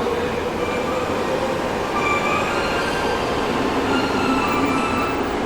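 Tokyo Metro 05 series subway car heard from inside while slowing for a station: steady running rumble with the Mitsubishi IGBT inverter's tones falling in pitch as it brakes, and some wheel squeal.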